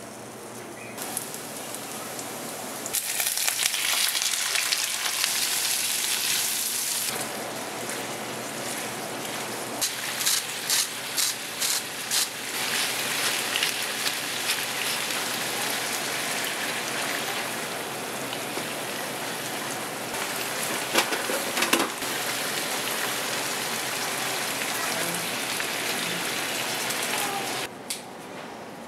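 Butter sizzling in a nonstick frying pan as red onion, thyme and then chicken livers fry, a steady hiss broken by a few sharp clicks about ten seconds in and again around twenty seconds in. It cuts off near the end.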